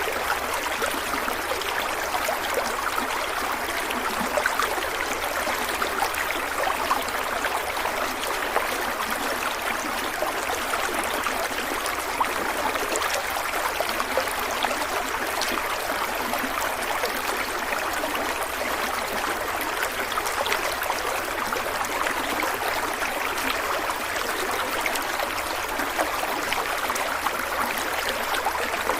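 Stream water running and splashing steadily over rocks, with a constant rushing and bubbling and no lulls.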